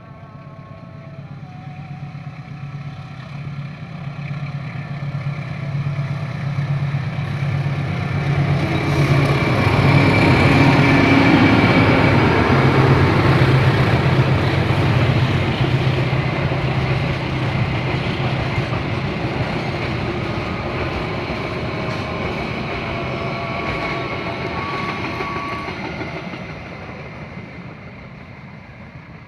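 A diesel-hauled passenger train passing. The locomotive's engine throb builds to a peak about a third of the way in, then a long run of carriage wheels on the rails follows and fades away near the end.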